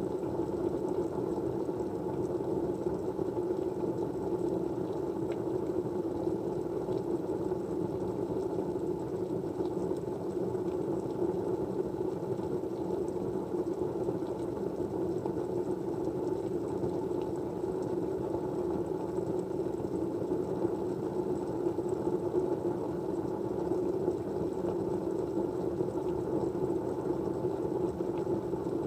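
Steady low rushing white noise with no change in level, with a few faint ticks scattered through it.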